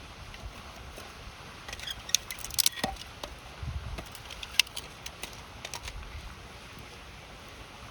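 Wood fire crackling, with a run of sharp pops and snaps over a few seconds, over the steady rush of a river.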